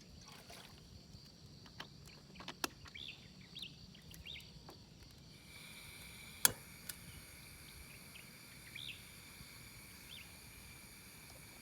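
Faint outdoor ambience of insects trilling steadily at several pitches, with a few short chirps and scattered sharp clicks, the loudest click about six and a half seconds in.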